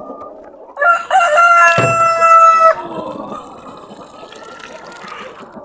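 A tiger chicken rooster crows once, a loud held call of about two seconds starting about a second in, followed by low clucking from the flock.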